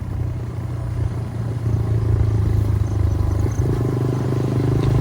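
Motorcycle engine running steadily while riding, a low drone with a higher engine note joining about two seconds in and slowly getting louder.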